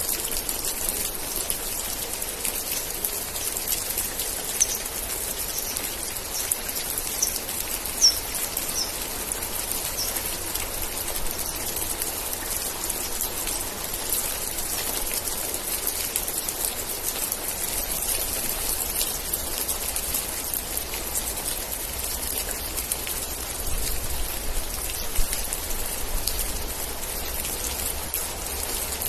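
Steady rain with dense patter of drops. About four seconds in comes a run of roughly seven short high chirps over about six seconds, and a few louder single drop taps stand out.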